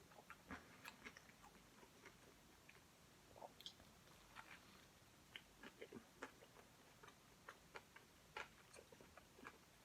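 Faint chewing and eating sounds: scattered soft clicks of a mouth working on food.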